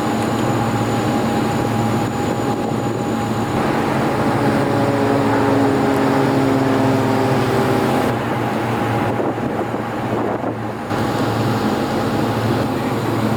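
Steady engine drone with wind noise, holding a few constant tones, with a short dip in level about ten seconds in.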